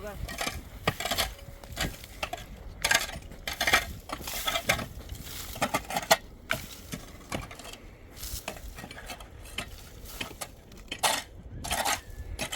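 Irregular metal scrapes and clinks of hand tools against hard surfaces, in short strokes with no steady rhythm.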